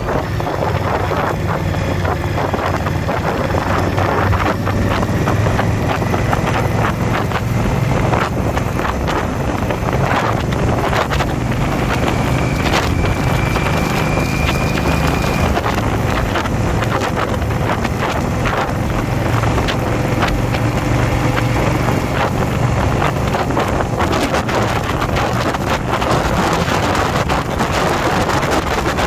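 Motorcycle V-twin engine running steadily while riding, with heavy wind noise buffeting the microphone. A faint high whistle comes in briefly near the middle.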